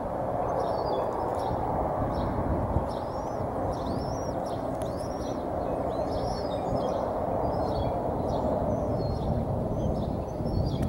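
Birds chirping in short, high, repeated calls over a loud, steady rush of outdoor background noise.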